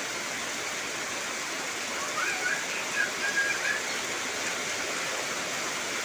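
Heavy rain falling steadily, a dense even hiss of rain on foliage. About two seconds in, a few short high chirps sound over it for a second or two.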